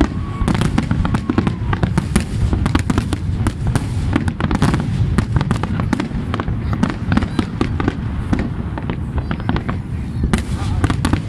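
Fireworks display: a dense, continuous barrage of aerial shell bursts and crackling, many bangs a second over a steady low rumble.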